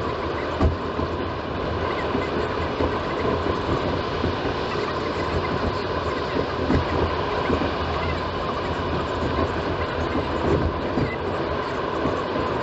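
Steady road and tyre noise inside a moving 2018 Toyota RAV4, picked up by the dashcam's built-in microphone: a low rumble and hiss with a few small knocks.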